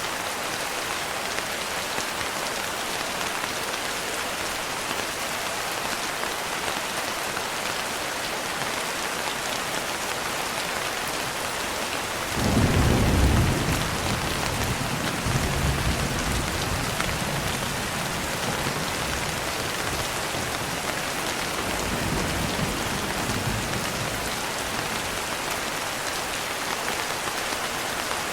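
Steady rain with a peal of thunder a little under halfway through: a loud low boom, then rolling rumbles that fade away over about ten seconds.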